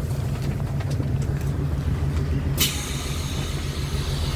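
Steady low rumble of a Mugunghwa-ho passenger carriage under way, heard from inside, with one sharp click about two and a half seconds in.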